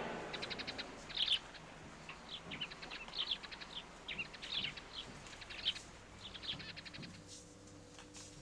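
Birds chirping, with quick repeated trills and short chirps that die away about seven seconds in. A faint steady hum and a few light clicks follow.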